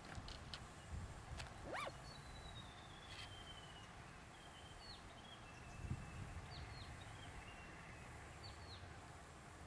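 Faint birdsong: a long high whistle sliding gradually downward, followed by several short high notes that each drop sharply in pitch, with a few faint clicks.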